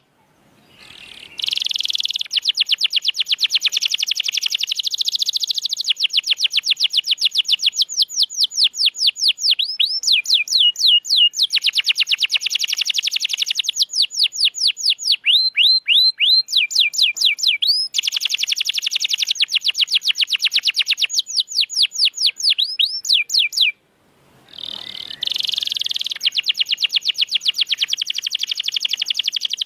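Domestic canary singing a long, high-pitched song of rapid repeated trills and rolls. It breaks off briefly about a second in and again near the end, then carries on.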